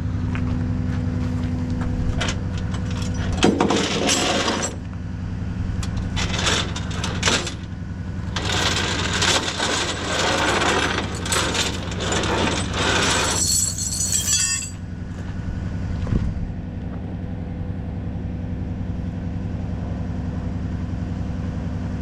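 Rollback tow truck's engine idling steadily, with loud bursts of metallic clattering and knocking from about 3 to 15 seconds in while the truck is being loaded.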